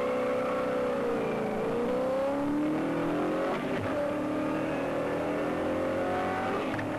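Big-block V8 of a 1966 muscle car under hard acceleration, heard from inside the cabin. The engine pitch climbs, drops at a gear change with the four-speed manual about halfway through, then climbs again.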